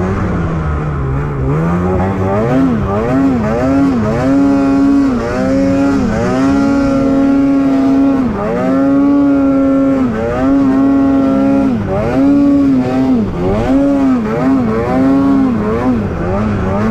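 Snowmobile engine revving hard and easing off again and again, its pitch climbing and holding high for a second or two at a time before dropping, as the throttle is worked through deep snow.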